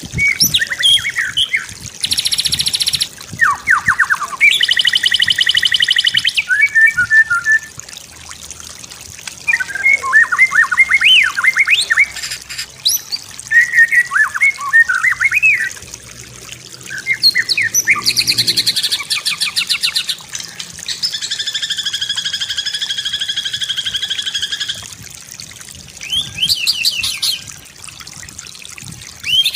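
White-rumped shama (murai batu) singing a varied song: quick whistled sweeps and trills alternating with long buzzy, rattling phrases, each phrase lasting a second or a few, with short pauses between them.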